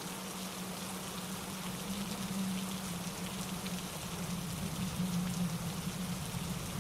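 Steady rain falling, with many small drops ticking close by, over a constant low rumble.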